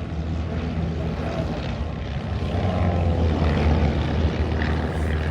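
Propeller airplane engines droning in flight, growing slightly louder past the middle.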